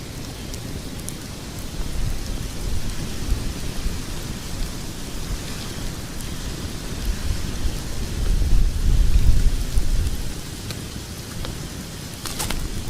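Log fire burning in a fireplace: a low, steady rumble of flames with scattered small crackles, the rumble swelling about two-thirds of the way in, and a sharper pop near the end.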